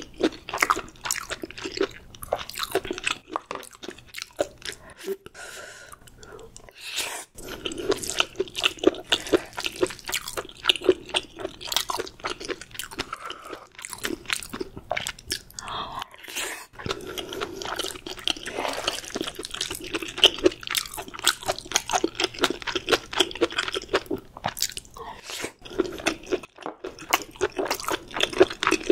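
Close-miked chewing of food, with rapid crisp crunching and wet mouth sounds, pausing briefly a few times.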